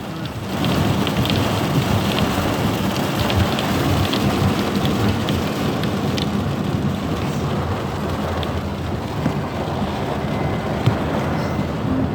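Heavy rain pouring down: a steady, dense hiss with scattered ticks of drops hitting.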